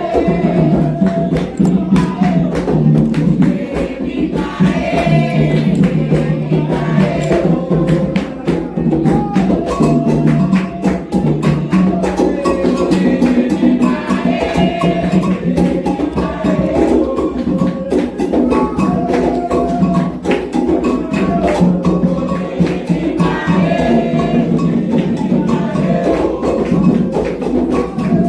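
Candomblé ritual music: atabaque hand drums playing a fast, dense rhythm with a struck bell or block keeping time, and sung chant phrases returning every several seconds over it.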